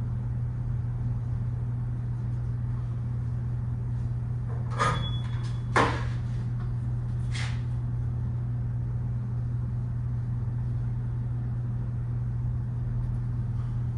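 A steady low hum, with two short knocks about five and six seconds in and a brief scrape a little later, like metal parts or tools being handled.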